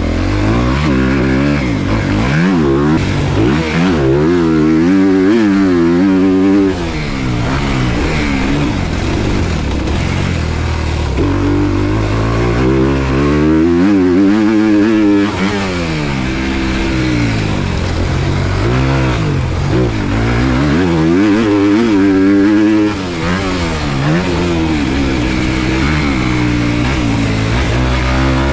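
Motocross dirt bike engine being ridden hard, revving up and falling back again and again as the rider accelerates, shifts and slows for corners, with brief throttle cuts a few times.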